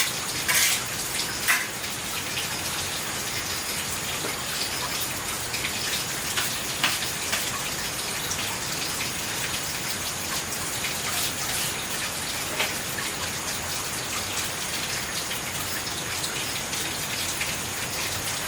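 Steady rain, an even hiss with scattered individual drops ticking, a few louder ones near the start.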